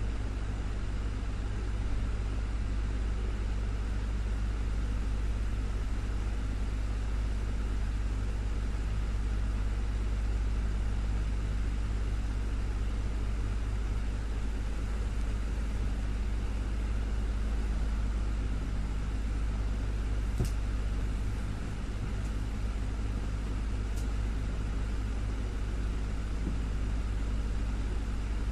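Desktop fan running steadily: a low motor hum under an even rush of air, with two faint clicks a few seconds apart near the end.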